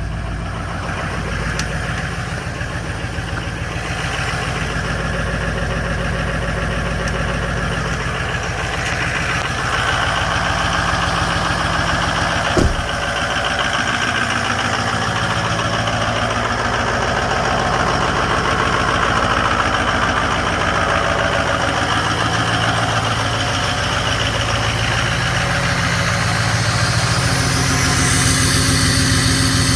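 Ford 6.0 Powerstroke V8 turbo-diesel idling just after a cold start at 14 degrees, a steady diesel running sound. A single sharp click comes about halfway through, and near the end the sound shifts as a higher tone joins in.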